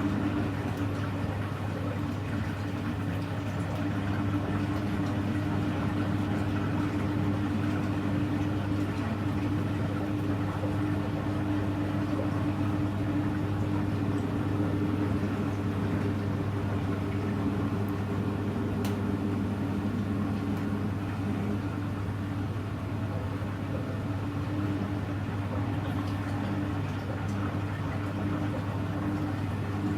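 Hoover Electra front-loading washing machine running mid-cycle: a steady motor or pump hum with a low steady tone, unchanging in pitch.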